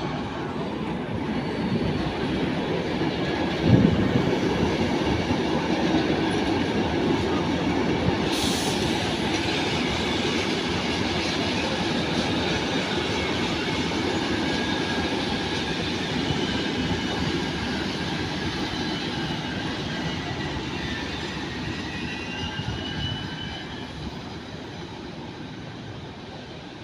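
Train moving slowly through the station, a steady rumble with high thin squeals from its wheels on the rails, and a single knock about four seconds in. The sound fades away over the last few seconds.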